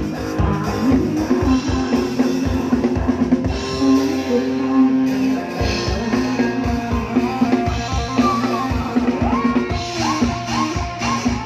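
Live band music: a drum kit keeps a steady beat with kick and snare under sustained melody notes, and the kick drum drops out briefly about four seconds in. Near the end a lead instrument plays a run of sliding, bending notes.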